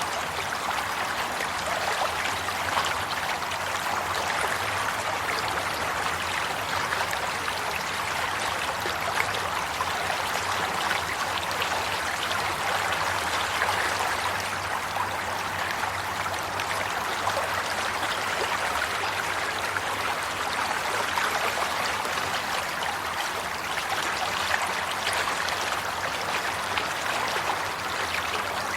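Running water flowing steadily, a continuous rushing and trickling like a stream, with small splashing flickers throughout.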